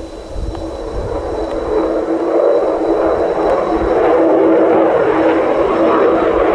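Mitsubishi F-2 fighter's jet engine on landing approach, its rushing noise growing louder over the first few seconds as the jet closes in, then holding loud, with a steady low tone under it.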